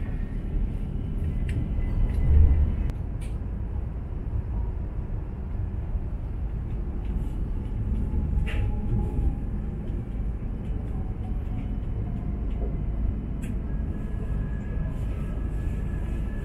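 Steady low rumble inside a moving H5 series Shinkansen carriage as it rolls past station platforms. There is a heavier bump about two seconds in, and a faint thin whine that slides down in pitch and then holds steady near the end.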